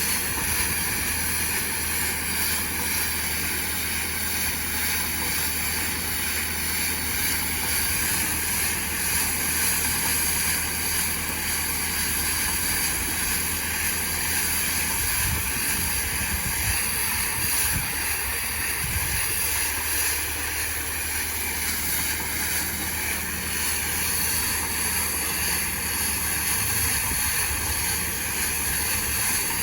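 Tractor engine running steadily with a constant low hum, as the bales are moved into a line for wrapping.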